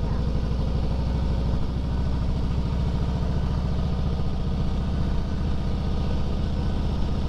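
Harley-Davidson Fat Boy Lo's V-twin engine running steadily at low road speed, a fast even pulse of firing strokes.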